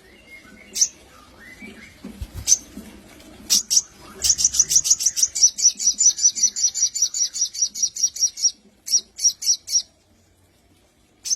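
Sogon bird calling in sharp, high chips. A few single chips come first, then a fast, even run of about six a second for some four seconds, then a few more spaced ones.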